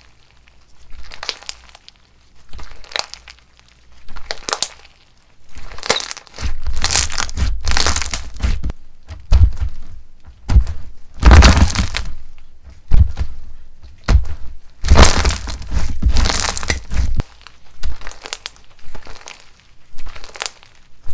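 Slime being pressed and squeezed by hand: a series of short crackling bursts, with heavier low thuds from about six to seventeen seconds in.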